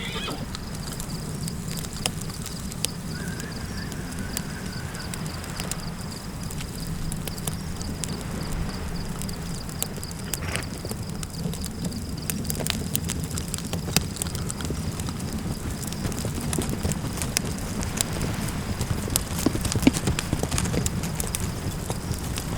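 Campfire crackling over a steady low rush of wind, with sharp pops and knocks scattered throughout.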